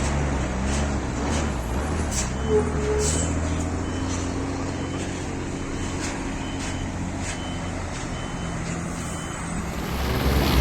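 A large engine running steadily with a low drone. A run of short high beeps repeats every half second or so through the middle, the kind a reversing alarm gives.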